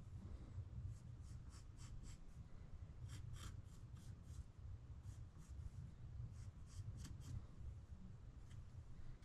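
Short scraping strokes on wood, in three quick runs of about five or six strokes each, over a steady low rumble.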